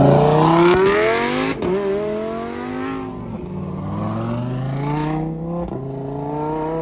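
A car engine accelerating hard through the gears. Its pitch climbs, drops at each upshift (three of them, about a second and a half, three and five and a half seconds in), then climbs again, growing fainter as the car pulls away.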